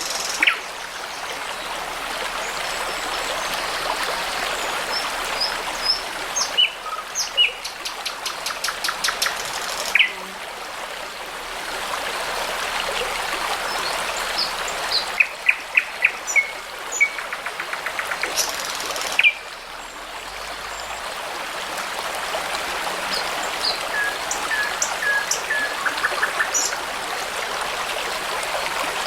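Babbling brook running steadily, with songbirds singing over it: scattered short whistles and chirps, and a few fast trills of rapidly repeated notes.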